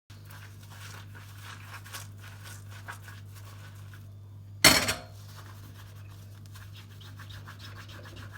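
Small household handling sounds: light scratching and rustling over a steady low hum, with one sharp, loud clatter about halfway through.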